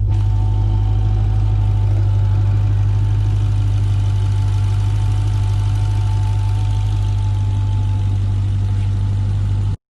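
Dodge Challenger SRT Hellcat's supercharged 6.2-litre V8 idling steadily, a deep even hum with a faint higher whine over it. It cuts off abruptly near the end.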